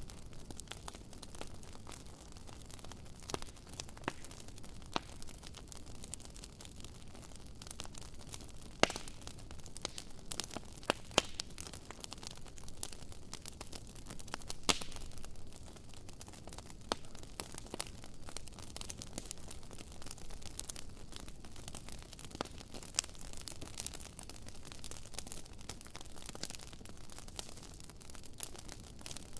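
Wood bonfire crackling: a steady hiss with irregular sharp pops and snaps, a handful of them much louder than the rest.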